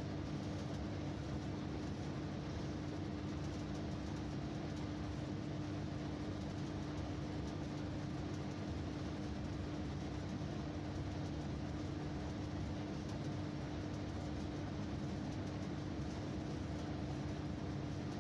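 Steady running drone inside an electric train's cab: a low rumble with one constant hum over it.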